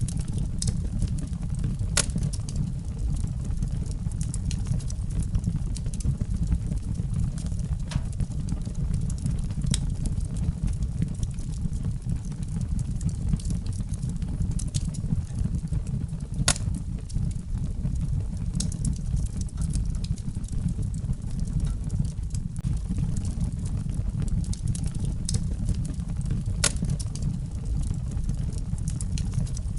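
Wood fire burning in a fireplace: a steady low rumble of flames with sharp crackles and pops at irregular intervals, a few of them loud snaps.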